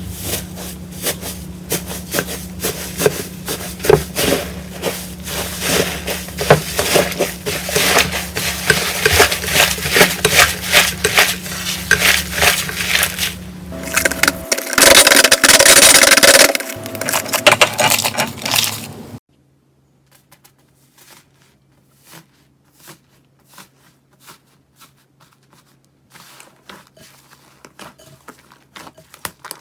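Slime being squeezed and worked by hand: dense, loud crackling and popping clicks that stop abruptly about two-thirds of the way through, followed by faint scattered clicks and squishes.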